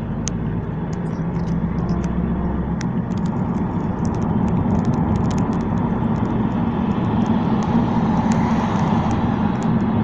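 Road noise of a moving car heard from inside the cabin: a steady low engine and tyre rumble that grows slightly louder over the second half, with scattered small clicks.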